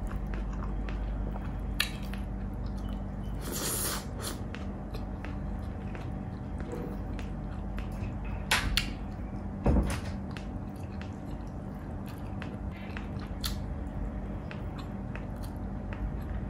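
Close-miked chewing and wet mouth clicks as fried pork is eaten, with a few louder sharp clicks and smacks about four, eight and a half and ten seconds in, over a faint steady hum.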